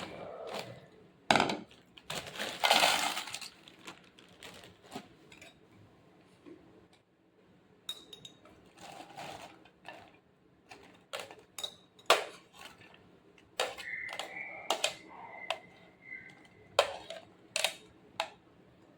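Kitchen utensils and dishes clinking and clattering in scattered sharp knocks, with a louder, noisier stretch about two to three seconds in.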